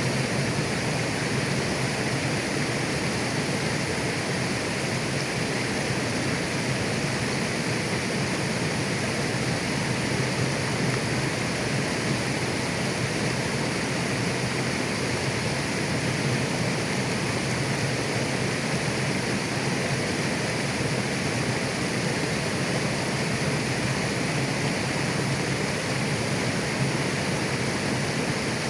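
Clear mountain river flowing over rocks: a steady, even rush of water.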